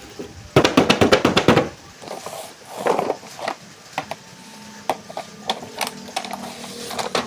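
Toy packaging being handled and opened: a quick run of sharp crackling clicks, a rustle, then scattered taps and clicks.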